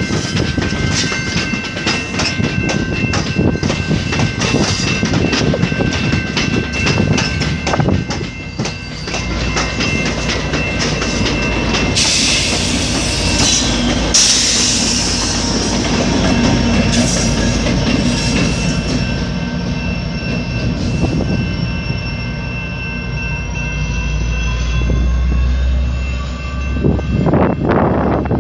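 Commuter train rolling past, its wheels clicking rapidly over the rail joints with steady high squealing tones from the wheels. A burst of hissing comes about twelve seconds in, and a rising whine builds near the end.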